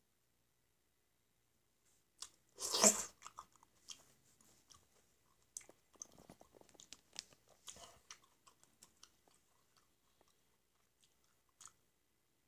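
A person biting into and chewing a peeled black grape. The bite about three seconds in is the loudest sound. Several seconds of chewing clicks follow and thin out, with one more click near the end.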